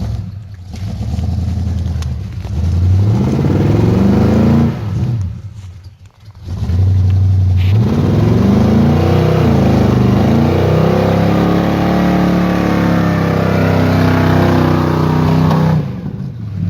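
Mud truck engine revving loudly: one rev climbing in pitch for a couple of seconds, a short drop, then a long run at high revs with the pitch dipping and climbing again, backing off near the end.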